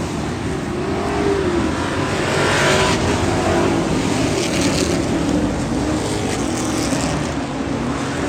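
Race car engines running on a track, their pitch rising and falling as they go through the laps.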